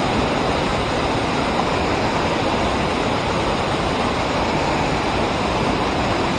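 Fast river water rushing below a dam: a steady, unbroken noise of moving water.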